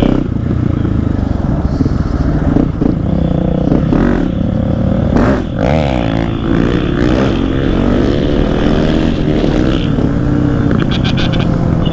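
Dirt bike engine running under way on the street, its pitch falling and rising with shifts and throttle changes about halfway through.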